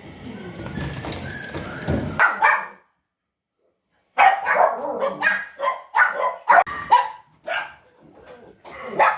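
Dogs barking: two sharp barks, a moment of silence, then a run of short barks coming two or three a second.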